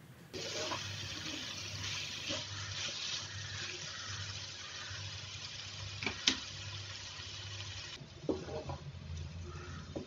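Onions, green chillies and tomatoes sizzling steadily in hot oil in a non-stick kadai, with a spatula stirring and scraping the pan. A sharp click about six seconds in and a few light knocks near eight and a half seconds.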